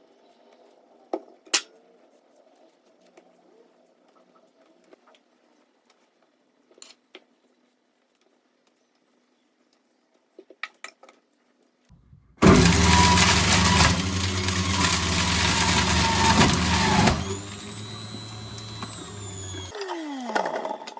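A few faint clicks and handling knocks, then a small electric appliance motor switches on about halfway through and runs loud and steady for about five seconds, drops to a lower speed, and winds down with a falling whine near the end.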